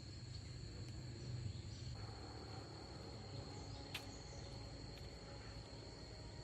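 Faint steady insect trilling, a thin high unbroken tone, over a low hum, with one sharp click about four seconds in.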